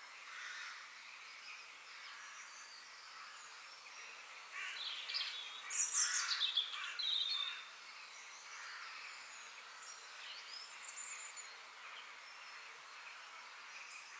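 Several songbirds chirping and calling over a soft, steady background hiss of forest ambience. About halfway through comes a louder burst of quick, falling song notes.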